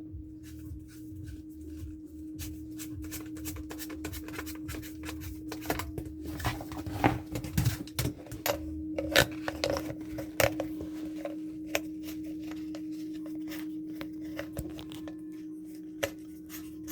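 Irregular clicks, taps and knocks of objects being handled, most frequent and loudest in the middle, over a steady low hum.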